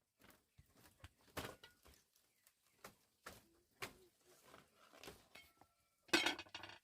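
Scattered light clinks and knocks, as of small objects being handled, with a louder, denser clatter about six seconds in.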